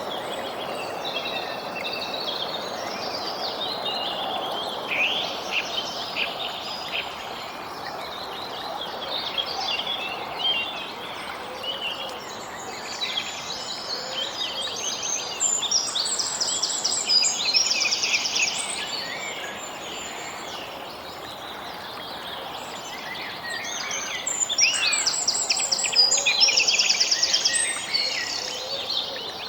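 Songbirds chirping and calling over a steady background hiss, with several quick rapid trills, the loudest around the middle and again near the end.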